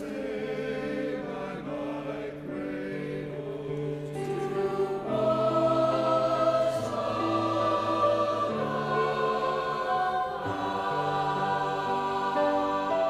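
A choir singing slow, long-held chords, growing louder about five seconds in.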